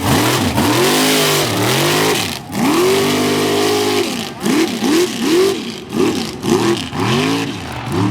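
Supercharged mega truck engine revving hard again and again, its pitch sweeping up and falling back. About halfway through it is held high for a second, then comes a run of quick blips about twice a second.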